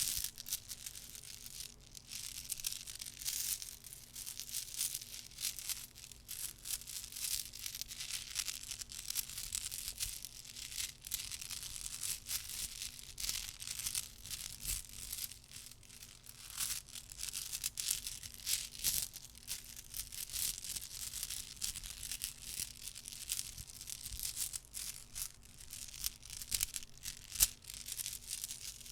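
Close-miked soft clicking and crackling, a dense irregular run of many small clicks a second, with one sharper click near the end.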